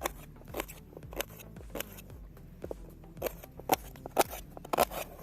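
A series of sharp snips or clicks, roughly two a second and uneven in strength, the loudest coming near the end.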